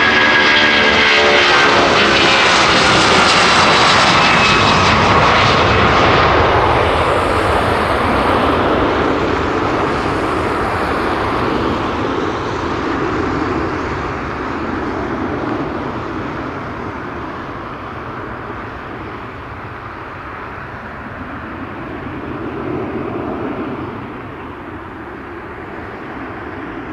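Jet engines of a Boeing 757-200F freighter at takeoff power: a loud roar with whining tones that drop in pitch as the aircraft passes, then the roar slowly fading as it climbs away.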